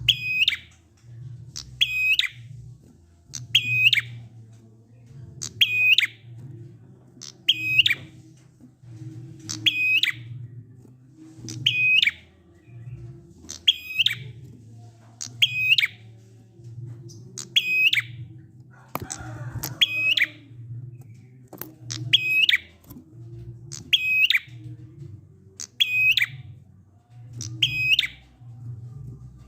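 Prinia (prenjak) giving its drawn-out 'ngalun' call over and over, one call about every two seconds. Each call is a short, high note ending in an upward hook, over a low hum. Keepers play this call as a lure to set a silent prinia singing.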